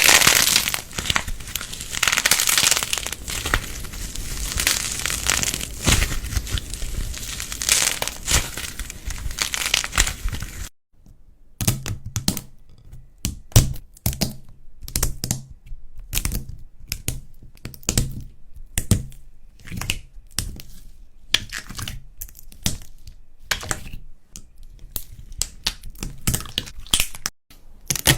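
Slime and clay being pressed and broken up, with crunching and crackling. It is dense and continuous for about ten seconds, stops abruptly, then goes on as sparser separate clicks and pops with short quiet gaps.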